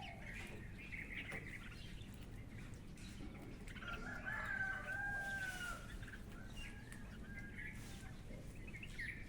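A rooster crows once, a long held call about four seconds in, over small birds chirping.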